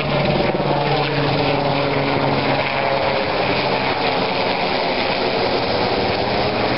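Military helicopter's rotors and turbine engines running steadily overhead, a loud continuous drone with a steady hum.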